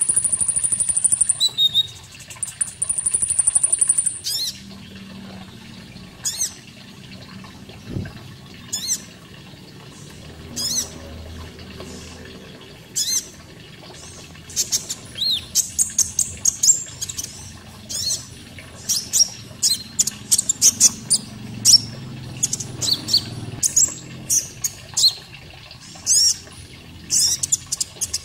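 Konin songbird calling: a long, high, buzzing trill in the first four seconds, then a run of short, sharp, high chirps that come faster and denser in the second half, over a steady water sound.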